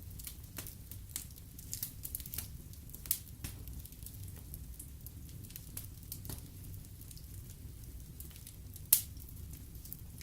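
Wood fire in a fireplace crackling, irregular sharp pops and snaps over a low steady rumble of the flames, with one loud pop about nine seconds in.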